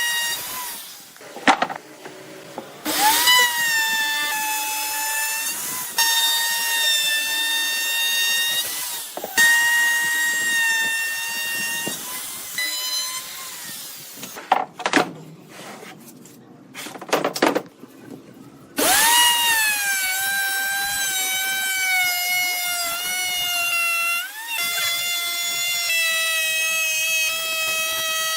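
Handheld electric power tool motor whining in several runs of a few seconds each, its pitch dipping as it bites into the wood and then settling, with a few sharp knocks in a pause partway through. A final long run from about two-thirds of the way in slowly drops in pitch as it works under load.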